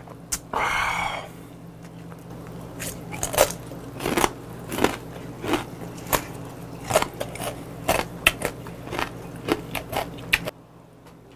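A person chewing whole raw mud crabs (chilge) in spicy soy seasoning, the shells cracking in irregular sharp crunches, two or three a second, that stop suddenly near the end.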